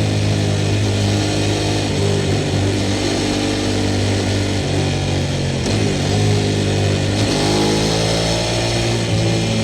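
Sport motorcycle engine running through a Montezemolo aftermarket exhaust. The note holds steady, falls in pitch about five seconds in, then climbs again near the end.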